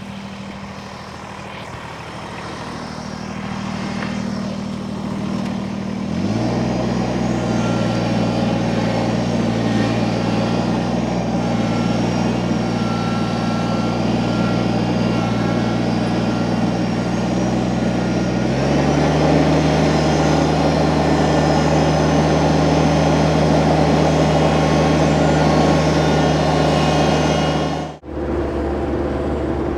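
Diesel engine of a piece of heavy equipment running under load. It picks up speed about six seconds in, changes pitch again past the midpoint, and breaks off abruptly near the end.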